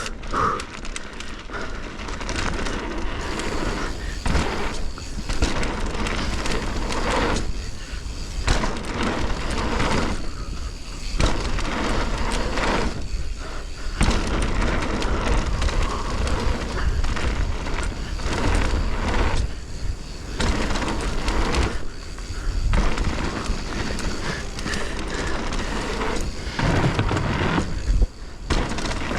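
Mountain bike riding down a bike-park trail: rolling tyre noise and rattle from the bike over rough ground, with wind rushing on the camera microphone. The noise comes in surges with a few short lulls.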